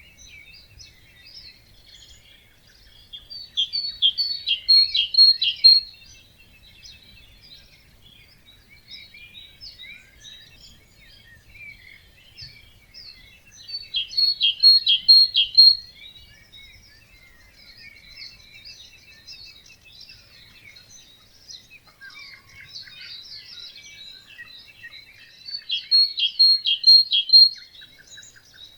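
Dawn chorus of wetland songbirds, with one nearby bird singing a loud song three times, about every eleven seconds. Each song is a quick run of downward notes ending in a few bright repeated notes, over steady fainter chirping from many other birds.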